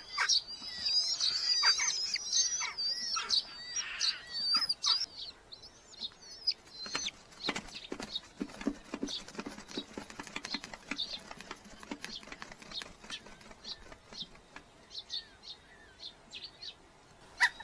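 Red-footed falcon chicks calling with high, wavering calls for about the first five seconds. After that they scratch and rustle about the nest box, with wing flapping and scattered short calls.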